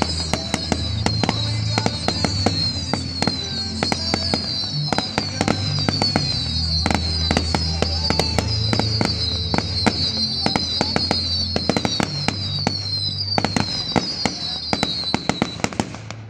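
Aerial fireworks going off in quick succession, with many sharp bangs and crackles and repeated falling whistles, over loud music with a steady bass line. The bangs and music thin out near the end.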